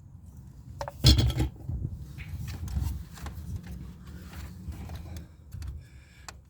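Handling of a pickup's plastic dash trim and wiring harness connectors as they are unplugged: a sharp click about a second in, then scraping, rubbing and light clicks.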